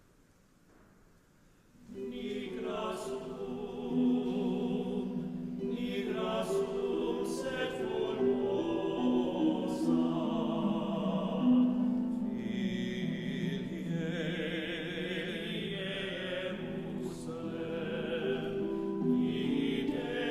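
A choir singing in harmony, coming in about two seconds in after a brief near-silent pause. The held notes carry vibrato.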